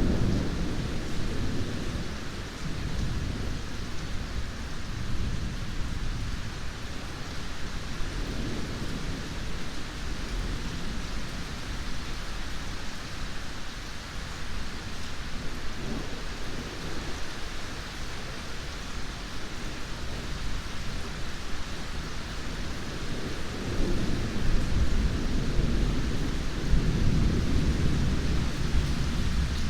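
Steady heavy rain with low, rolling thunder rumbling underneath, the rumble swelling louder for the last few seconds.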